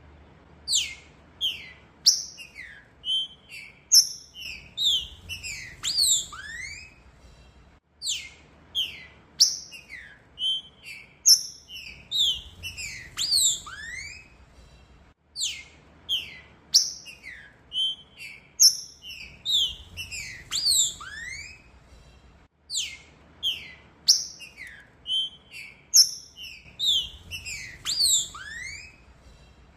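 Green-winged saltator (trinca-ferro) singing: a quick run of clear whistled notes that slide downward, ending in one upward-sliding lower note. The same phrase repeats four times, about every seven to eight seconds.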